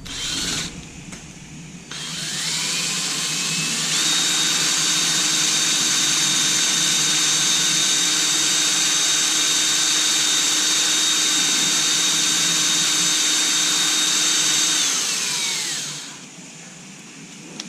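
Small electric power-tool motor spinning up about two seconds in, running at a steady speed for about eleven seconds, then winding down and stopping.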